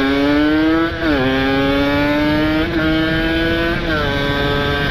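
Ported Kawasaki Ninja RR two-stroke single-cylinder motorcycle engine accelerating hard through the gears. Its pitch climbs, drops sharply at a shift about a second in, climbs again, and shifts once more near four seconds in.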